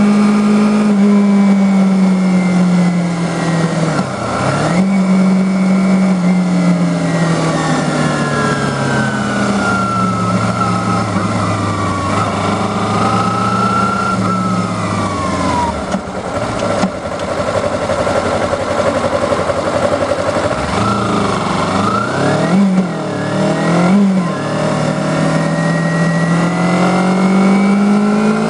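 Kawasaki Ninja 250R's parallel-twin engine heard from on board while riding, with wind rush throughout. Its pitch dips sharply through a gear change about four seconds in, then winds down as the bike slows and runs low and steady for a few seconds. It revs up and down quickly several times before climbing steadily again near the end.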